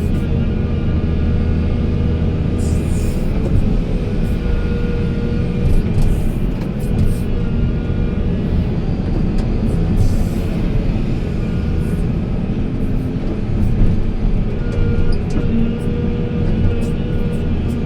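Heavy machinery engine running steadily with a low rumble, with music playing over it.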